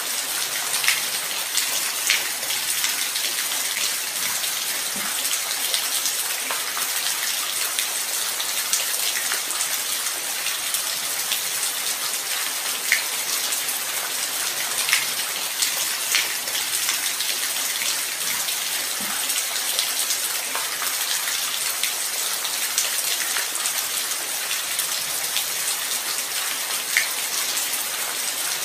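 Steady light rain: an even hiss of rainfall with individual drops ticking sharply now and then.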